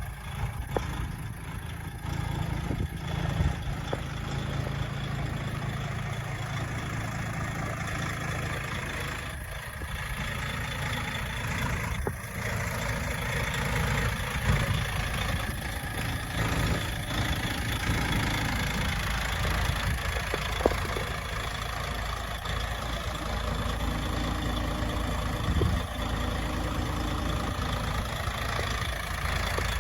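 DAF CF85.460 truck's PACCAR MX six-cylinder diesel idling steadily.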